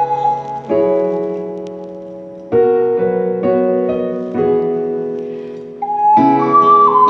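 Piano accompaniment playing slow chords that ring out and fade away, with the ocarina coming back in on held notes near the end.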